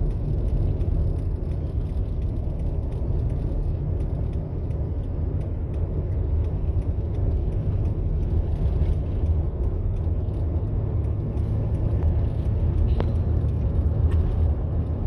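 Steady road and engine noise inside a moving vehicle's cabin: a continuous low rumble, with a few faint clicks near the end.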